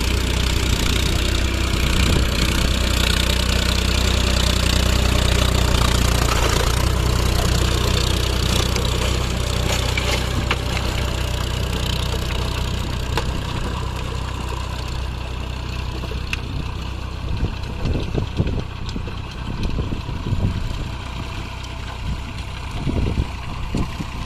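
Massey Ferguson tractor's diesel engine running steadily, with a strong low hum. The engine note weakens in the last third, and the level turns uneven there.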